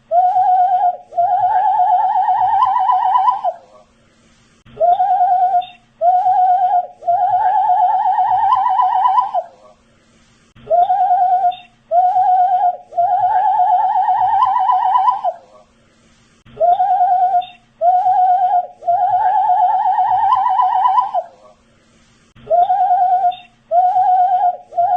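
A man whistling the same short phrase over and over, about every six seconds. Each phrase is two short notes followed by one long, wavering note that climbs slightly in pitch.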